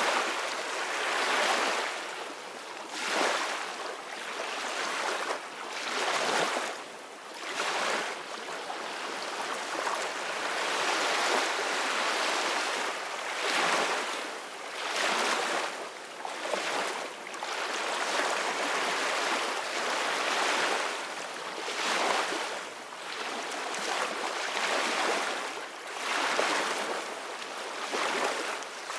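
Ocean waves breaking and washing in: a steady hiss of surf that swells and eases every few seconds.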